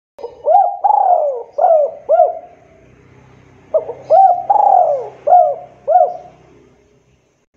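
Spotted dove (tekukur) cooing: two phrases of four low, hooked coos, each phrase with one long drawn-out note among short ones, repeated after a short pause.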